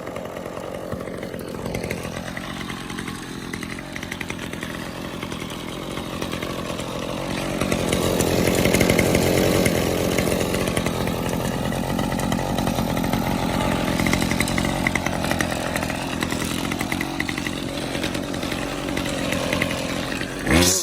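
Toro string trimmer's 25cc Kawasaki two-stroke engine running just after a cold start, after sitting unused all summer. It speeds up about eight seconds in and holds there, then revs sharply once near the end.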